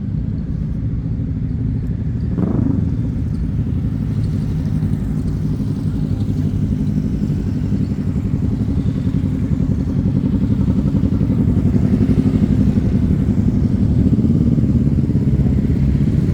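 Motorcycle engines running with a steady low rumble, growing gradually louder toward the end, with a brief rise and fall in pitch about two and a half seconds in.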